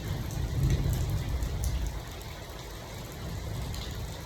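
Heavy rain falling steadily, with a low rumble under it that drops in level about two seconds in.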